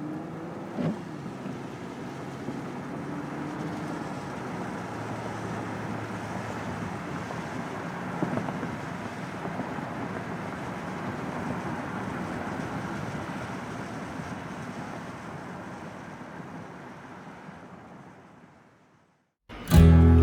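Steady rushing noise with a low rumble, with small knocks about a second in and again midway, fading out near the end.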